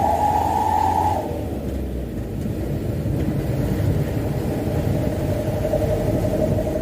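Mitsubishi Canter dump truck's diesel engine running on the road, its whine rising in pitch, then dropping away about a second in as the revs fall, then building back to a steady pitch.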